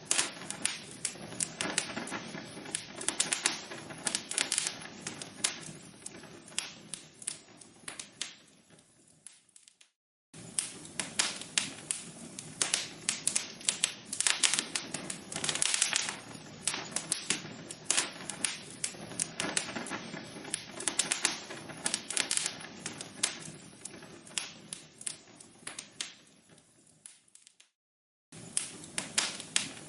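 Burning logs in a fireplace crackling and popping, a dense stream of irregular snaps. The crackling fades away and breaks off into a brief silence twice, about ten seconds in and near the end, then starts again at full strength where the recording loops.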